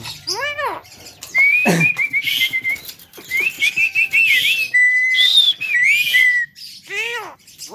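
A Javan myna whistling and chattering in quick wavering phrases. One short steady whistle comes about five seconds in. A short arching call comes at the start and another near the end.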